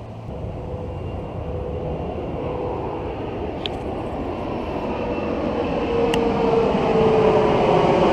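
A vehicle's engine rumble drawing steadily nearer and louder, its tone slowly falling in pitch, with two light clicks partway through.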